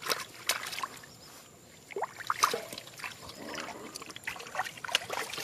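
Shallow water splashing and trickling in short, irregular bursts as fish are caught by hand.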